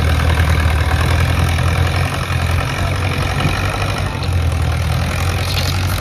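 Antique tractor's engine running steadily with a deep, even rumble.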